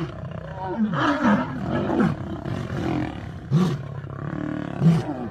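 An animal growling and crying out repeatedly, short pitched calls one after another.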